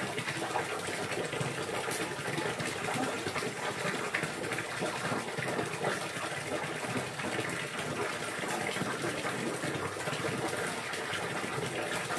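Water gushing and splashing steadily, with no clear bird song standing out.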